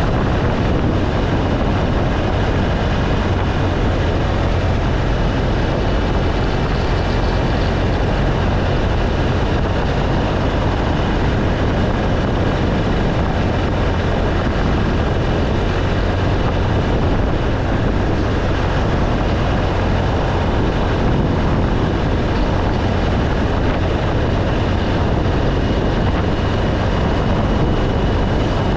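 BMW R1200 GS Adventure's boxer twin engine running steadily while the motorcycle is under way, over an even rush of wind and road noise.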